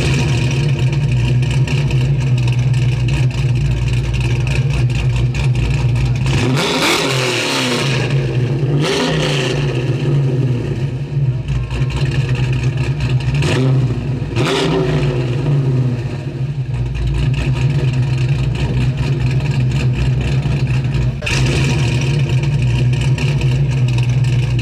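A 1973 Mercury Comet GT's engine idling with a steady, heavy note, with four short revs of the throttle about a third to halfway through, each rising and falling back to idle.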